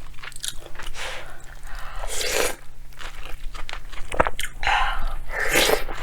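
A person chewing and biting mouthfuls of bibimbap with water kimchi and Spam, with irregular crunchy bites, the strongest about two seconds in, four seconds in and near the end.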